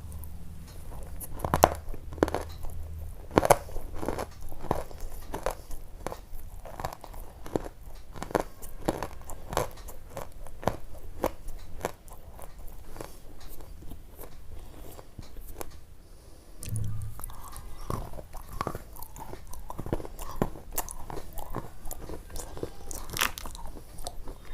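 Close, irregular crunching and chewing, like crisp food being bitten and chewed near the microphone, several crunches a second.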